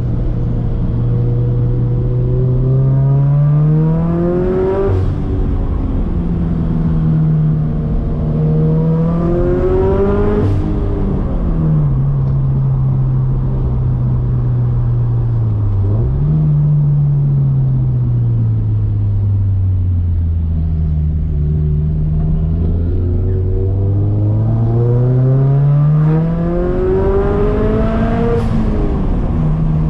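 Turbocharged Scion FR-S's 2.0-litre flat-four engine driven hard: the revs climb and break off with a sharp crack at gear changes about five, ten and twenty-eight seconds in. Between these they fall away slowly as the driver lifts off, then build again.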